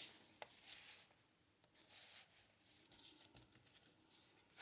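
Near silence with faint, soft rustles of paper, a few times over, as the pages and envelope of a handmade paper journal are handled.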